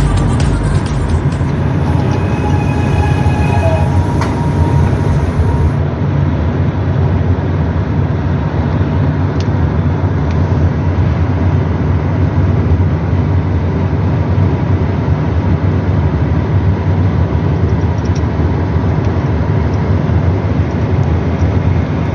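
Steady, loud, low rumble of a moving vehicle.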